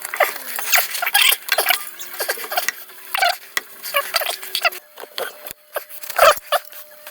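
Irregular metallic clinks, taps and scrapes as steel car suspension and driveshaft parts and tools are handled during the driveshaft fitting.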